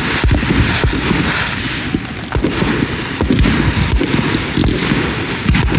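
Fireworks going off in a rapid, unbroken run of many bangs and crackles, several a second, over a low rumble.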